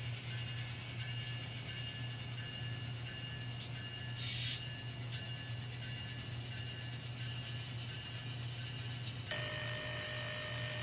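Sound-equipped N scale model locomotive running, its sound decoder playing a steady diesel engine hum with a short air hiss about four seconds in. Near the end, a horn sounds for about a second and a half and cuts off sharply.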